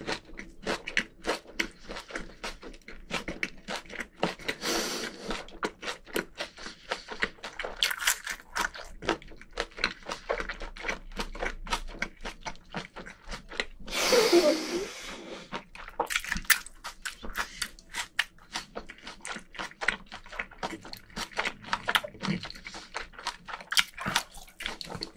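Close-miked chewing with the mouth closed: a steady run of wet crunching and smacking clicks from a mouthful of leafy-green wrap, with one louder, longer noisy sound about fourteen seconds in.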